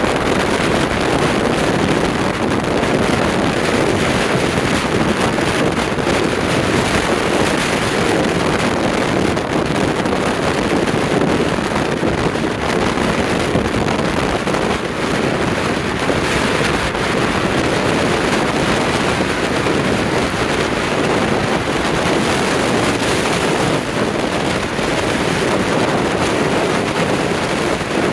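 Strong wind, about 35 mph with gusts to 45, buffeting the microphone over heavy lake surf breaking on the shore: a loud, steady rushing noise.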